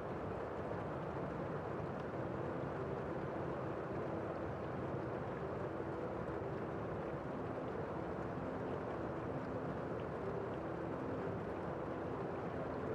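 Steady rain falling outside, heard from indoors through a window: a constant, muffled, even hiss without individual drops standing out.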